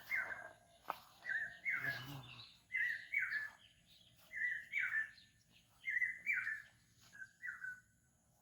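A bird calling over and over, a short two-note call repeated about every second and a half and growing fainter toward the end, with a single sharp click about a second in.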